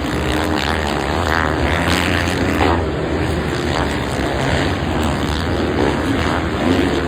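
Several motocross bikes' engines running and revving together, their buzzing notes rising and falling over one another without a break.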